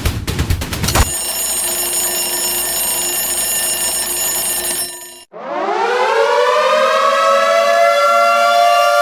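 A rapid string of sharp shots for about the first second, cut to a steady pitched tone that fades out about five seconds in. Then a siren winds up, its pitch rising from low and levelling off into a steady, loud wail.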